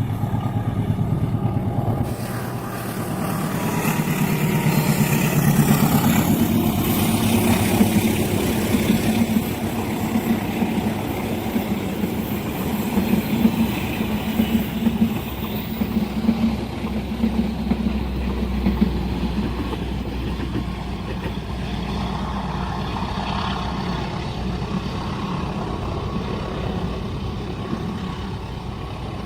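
A long passenger train passing at speed over a level crossing: a steady rumble with rapid wheel-on-rail clatter, loudest a few seconds in.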